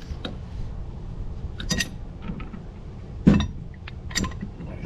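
Metal clinks and knocks from plumbing fittings and hand tools being handled and worked loose: a few separate sharp strikes with short ringing, the loudest about three seconds in.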